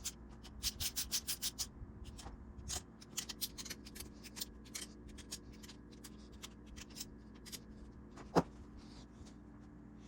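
Quick rubbing strokes by hand, in short runs of several strokes a second, with a single sharp click about eight seconds in.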